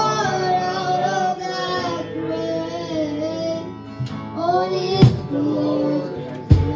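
Worship band playing with sung vocals, held notes over guitar and keys, with a drum hit about five seconds in and more drum hits near the end.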